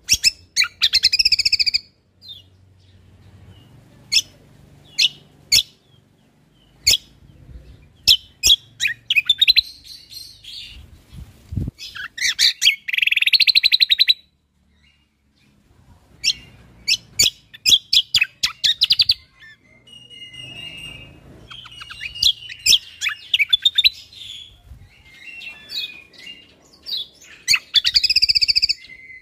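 Cucak kombo (kecial kombok) singing: sharp separate chips mixed with several bursts of rapid, fast-repeating trills a second or two long.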